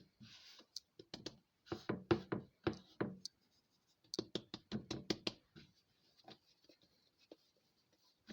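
Bread dough being kneaded and worked by hand: a run of soft knocks and thumps in two short bursts, then little sound.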